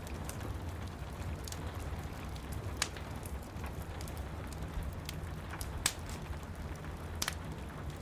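Steady rain with a low rumble, overlaid by the crackle of a wood fire in a fireplace: scattered sharp pops, three of them louder than the rest.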